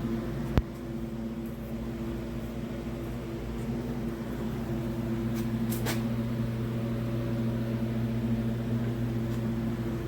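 A steady mechanical hum from a small running machine or appliance, with a single sharp click about half a second in.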